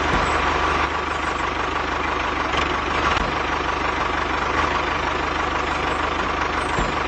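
Tractor engine running steadily with a fast, even low chug.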